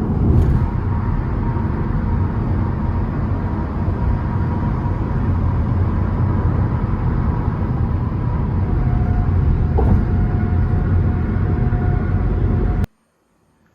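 Steady low road and engine rumble of a moving car, heard from inside the cabin. It cuts off suddenly near the end.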